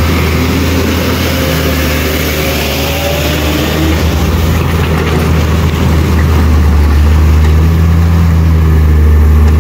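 Heavy vehicle engine running steadily with a deep hum, getting a little louder about six seconds in.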